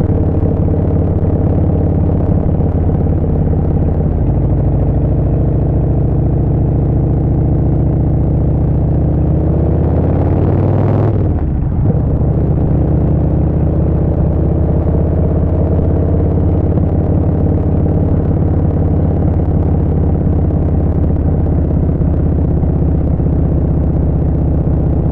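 Harley-Davidson Street Bob 114's Milwaukee-Eight 114 V-twin running steadily at cruising speed through a Vance & Hines Short Shots full exhaust, heard from the rider's position. About eleven seconds in a brief whoosh sweeps up and then drops away.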